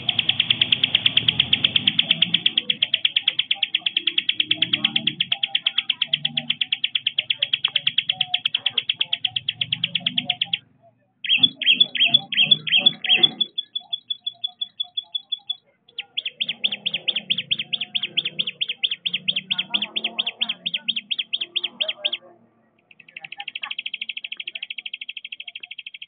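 A high, rapid, insect-like chirping trill, about ten pulses a second, in four long bouts broken by short pauses. The second bout starts loud and then thins to softer pulses.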